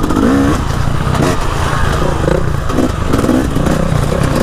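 Dirt bike engine running on a trail ride, the throttle opening and closing as the rider picks his way along.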